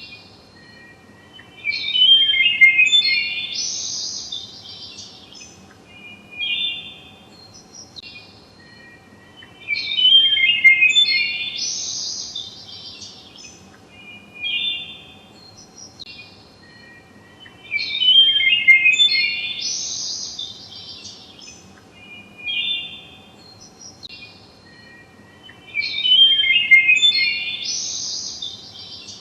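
Songbirds chirping and trilling in bursts; the same pattern of song comes back about every eight seconds, four times, over a faint steady hum.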